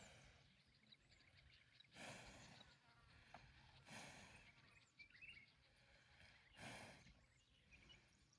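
Faint rural quiet broken by three soft, breathy exhalations about two seconds apart, a cow breathing out, with faint high chirps in the background.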